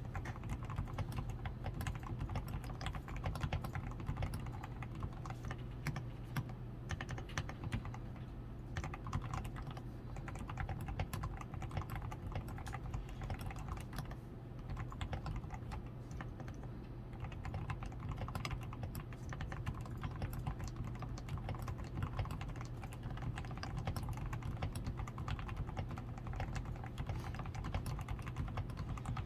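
Continuous typing on a DAREU A87 Pro mechanical keyboard, its switches fully lubed with Krytox 105, with a PCB tape mod, foam-reinforced switches, XDA keycaps and lubed stabilizers: a dense, unbroken stream of keystrokes.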